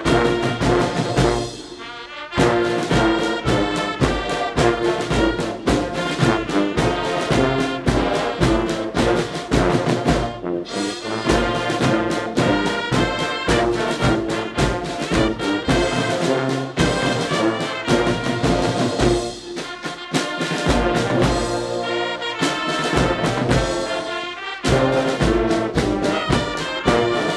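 Brass band playing a march, with trumpets and trombones over a steady drumbeat.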